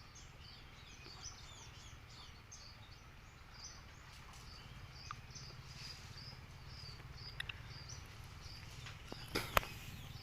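A small bird calling in a steady series of short high chirps, over a low steady hum. A single sharp snap sounds near the end.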